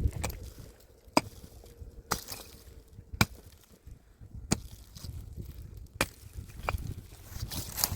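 Repeated sharp blows of a hand tool striking something hard: about seven strikes at uneven intervals, roughly one a second.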